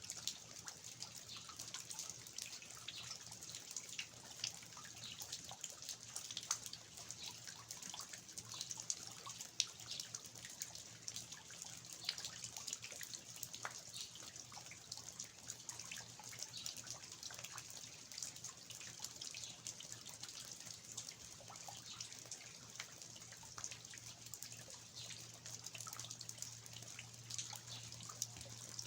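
Steady rain falling on a garden, with water dripping irregularly from the eaves of a traditional Korean house in many separate drips.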